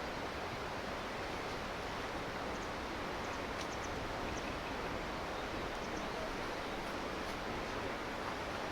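Steady rushing of a river flowing over stones, with a few faint high ticks near the middle.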